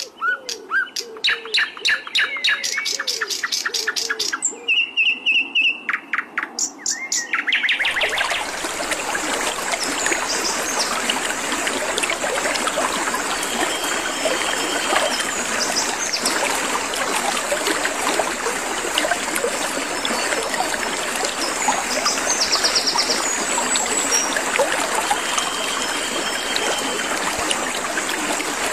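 Sikatan londo birdsong: rapid runs of short, sharp chirps and trills. About eight seconds in they give way abruptly to a steady hiss with only a few faint bird calls.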